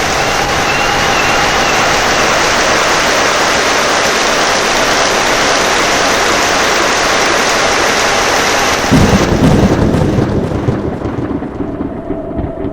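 Heavy rain pouring in a steady hiss. About nine seconds in, a loud, low thunder rumble breaks in and the rain's hiss thins out under it.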